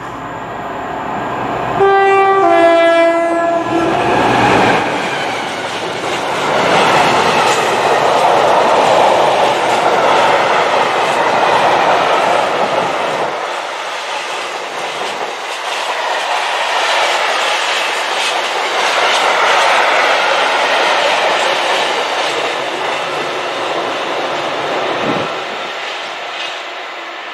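Freight train passing close by: the locomotive sounds a two-tone horn, a higher note then a lower one, about two seconds in, then the locomotive and a long rake of tank wagons rumble and clatter past loudly.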